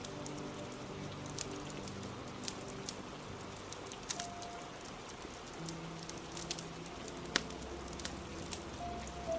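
Steady rain with a wood fire crackling, a pop every second or so and one sharper pop late on, over soft, slow background music of held low notes.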